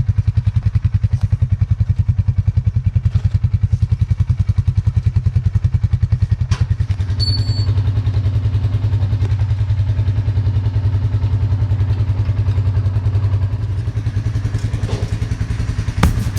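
Small engine of a gas-powered log splitter running steadily with an even, fast pulse. About six and a half seconds in there is a sharp click, and the engine note grows fuller after it. Drum music comes in at the very end.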